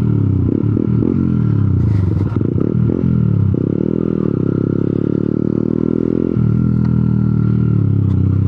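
Small 125cc motorcycle engine running at low speed. Its pitch dips and rises with the throttle over the first few seconds, then holds steady for about three seconds before shifting again. A brief rattle comes about two seconds in.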